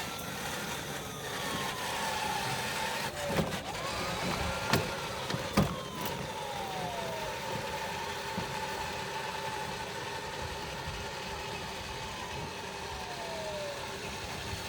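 Ride-on toy fire truck driving, its electric motor whining steadily under a siren tone that slowly rises and falls several times. A few sharp knocks come near the middle.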